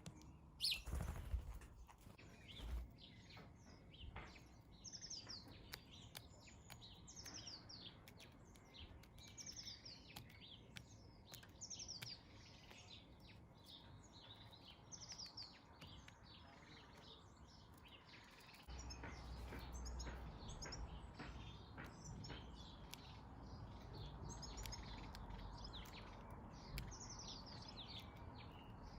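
Small garden birds chirping over and over in short, quick, high chirps. There is a brief knock about a second in, and a low background rumble gets louder at about two-thirds through.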